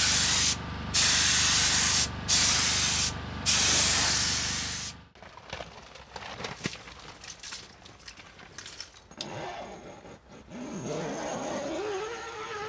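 Paint spray gun hissing in four bursts with short breaks as another coat of paint goes on. It stops about five seconds in, leaving quieter handling sounds.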